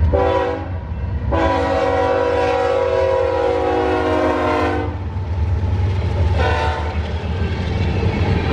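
Air horn of a GE Evolution-series (GEVO) freight locomotive sounding: a short blast, then a long one of about three and a half seconds, then another short one. A steady low rumble of the passing train runs underneath.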